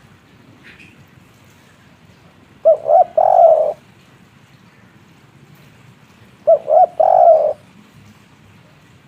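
Spotted dove cooing twice, about four seconds apart. Each call is the three-note 'kuk 3' phrase: two short coos and then a longer, drawn-out one.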